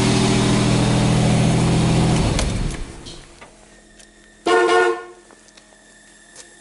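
1986 Pontiac Firebird's 2.8-litre V6 idling, then switched off about two seconds in. About halfway through comes a short, loud horn toot, and after it a faint steady high squeal, which the owner puts down to the fuel pump.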